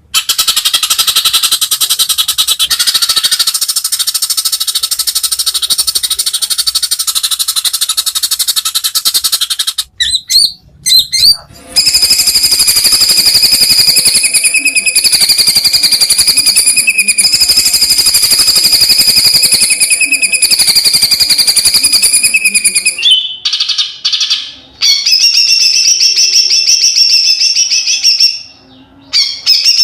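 White-rumped shama (murai batu) song: long, very rapid trilled chatter phrases, each held for several seconds. There are short breaks about ten seconds in and again after about twenty-three seconds.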